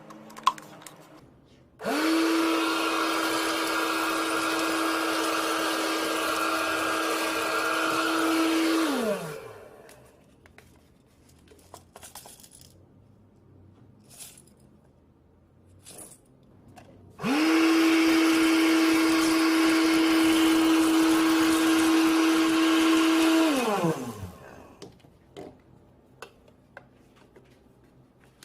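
Homemade PVC-pipe vacuum cleaner's electric motor and fan switched on twice, each time running steadily with a hum and rushing air for six or seven seconds, then winding down. A few light clicks and knocks come between the runs.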